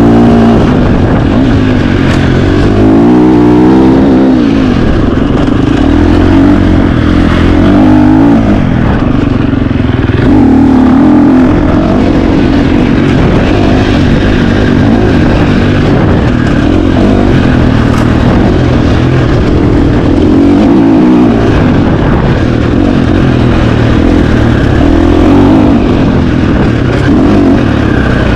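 2025 KTM 350 XC-F's single-cylinder four-stroke engine being ridden hard off-road, its pitch rising and falling every second or two with throttle and gear changes.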